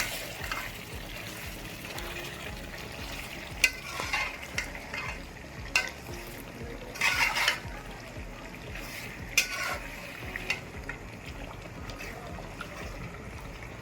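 Chicken and masala frying with a steady sizzle in a pot, with a spoon stirring and scraping against the pot several times, loudest about seven seconds in.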